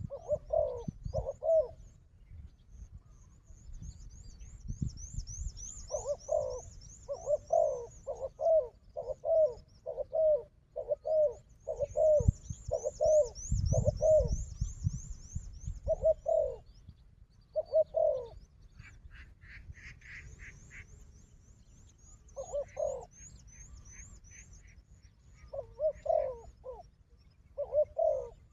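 Spotted doves cooing: runs of short, low coos repeated about twice a second, with pauses between the runs. A high, fast rippling trill comes and goes above them.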